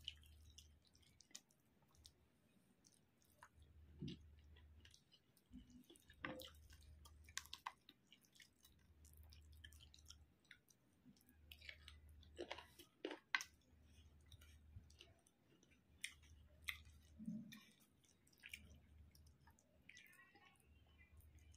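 Faint close-up chewing of rice and chicken curry, with scattered wet mouth clicks and lip smacks.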